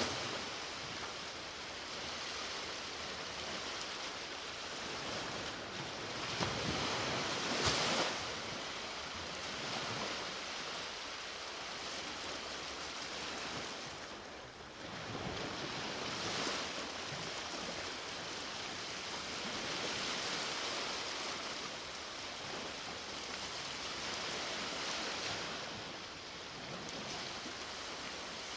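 Ocean waves breaking and washing up on a beach, a steady surf noise that swells and eases as each wave comes in, the strongest break about seven or eight seconds in.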